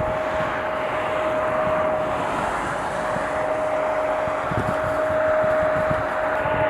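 Jet airliner engines running: a broad, steady roar with a steady whine held on one pitch.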